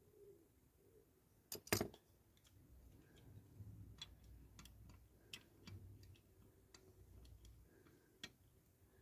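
Small clicks and taps of the metal parts of a diecast model car being handled and fitted, as a door is worked into the body: a sharp double click about a second and a half in, then scattered light ticks over a faint rumble of handling.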